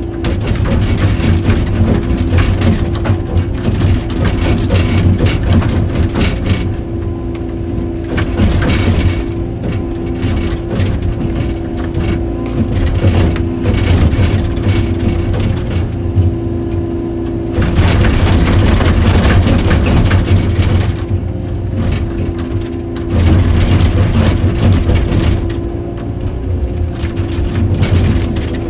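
Excavator engine running under load, rising in louder surges every few seconds, with cracking and crunching as tree roots are torn out of the ground.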